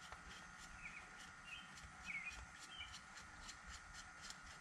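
Near silence, with a few faint short bird chirps and a faint even ticking in the background.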